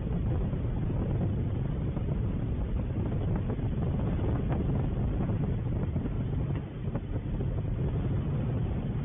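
Steady low rumble of wind buffeting an outdoor microphone, with a few faint ticks.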